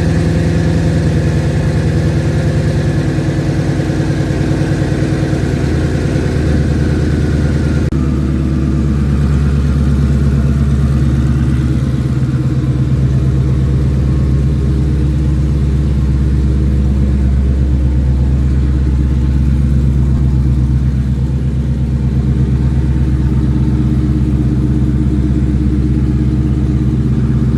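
Twin-turbocharged 2020 Ford Mustang GT500's 5.2-litre V8 idling steadily on its first start after the turbo build, its exhaust not yet finished. The idle settles slightly lower about eight seconds in.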